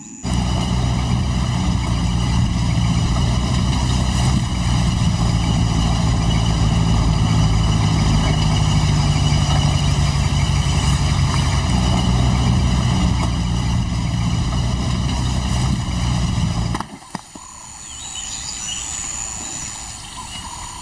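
A motor vehicle's engine idling steadily, a low even drone that cuts off abruptly about seventeen seconds in. What follows is quieter outdoor background with faint high chirps.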